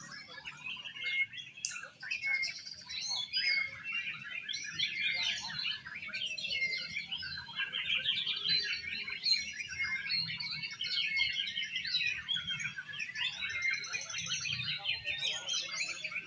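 Oriental magpie-robins (kacer) singing: an unbroken stream of fast, varied chattering and whistled phrases.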